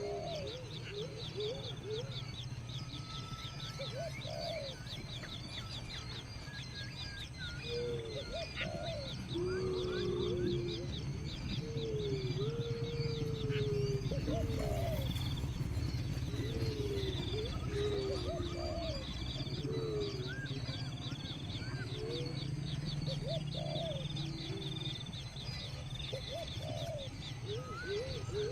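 Birds calling: short, low gliding calls repeat every second or two over a continuous rapid high chirping.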